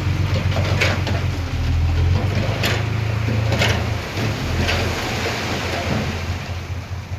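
Heavy diesel earthmoving machine running, a deep steady engine hum that eases a little about four seconds in, with four or five short sharp metallic sounds about a second apart.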